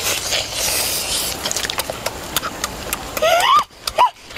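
Wet chewing and lip-smacking of meat being eaten, with many sharp clicks. Near the end, two short cries that rise and fall in pitch cut in.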